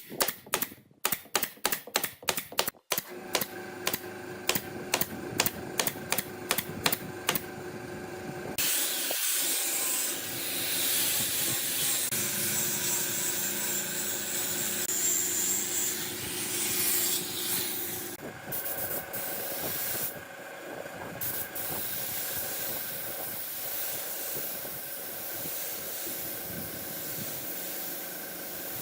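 A rapid run of sharp clicks, about four a second, for the first eight seconds or so, then a steady hiss of air with a faint hum under it.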